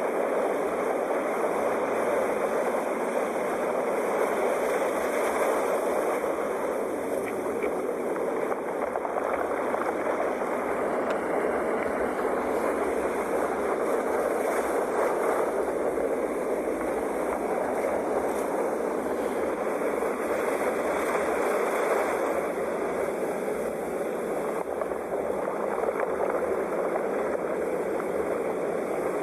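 Sea waves washing steadily, a continuous surf wash that swells and eases slightly every several seconds.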